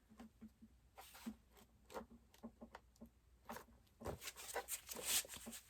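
Plastic kayak outfitting being handled: scattered light clicks and taps, turning into denser rubbing and scraping about four seconds in.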